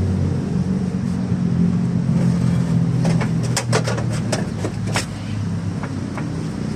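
A steady low engine hum, with a quick run of sharp clicks and taps in the middle.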